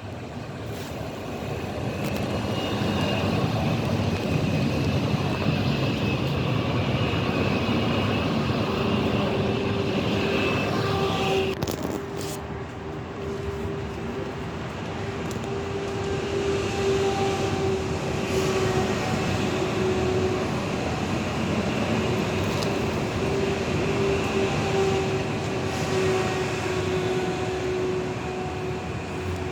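Train running on the rails: a steady rumble, with a held tone joining in about nine seconds in.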